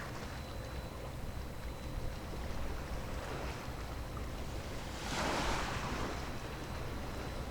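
Sea waves washing against the shore, with one louder surge about five seconds in, over a steady low wind rumble on the microphone.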